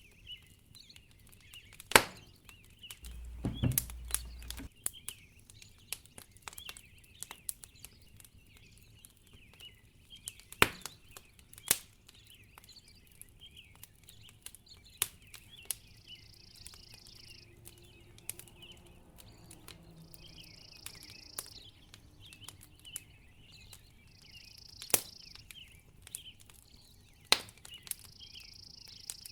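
Wood fire crackling, with irregular sharp pops, over a steady high chirping of birds. A low thud comes about three to four seconds in, and short soft hisses recur through the second half.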